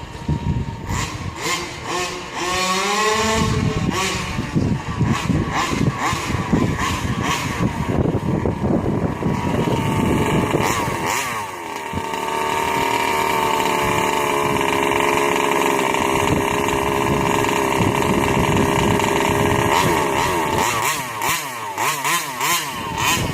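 The 36cc two-stroke engine of a Rovan 5T 1/5-scale RC truck running and being revved. Its pitch climbs sharply about two to three seconds in. From about twelve seconds in it holds a steady high note for several seconds, then wavers up and down near the end.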